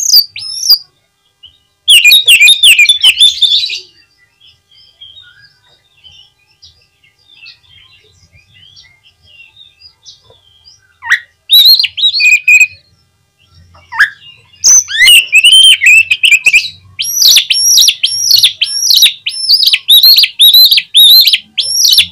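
Oriental magpie-robin singing loud, varied whistled phrases in bursts, with faint twittering in a pause, then a rapid run of repeated sweeping notes, about two a second, near the end.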